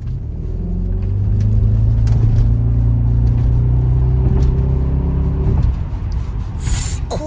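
Audi RS6's 4.2-litre twin-turbo V8 pulling under throttle. The engine note swells over the first second or so, holds steady, then drops off about five and a half seconds in.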